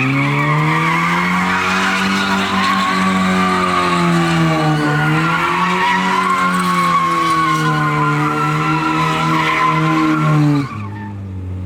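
Mazda Miata's four-cylinder engine held at high revs while doing donuts, its pitch swinging up and down, with tyres squealing continuously. The sound cuts off suddenly about ten and a half seconds in, leaving a lower, steadier engine note.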